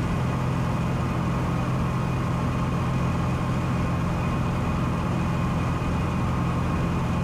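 Cessna 182 engine and propeller droning steadily in flight, heard inside the cabin.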